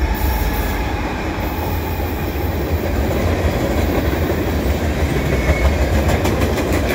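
Canadian National mixed freight train passing, with a steady deep rumble and wheels clicking over the rail joints toward the end.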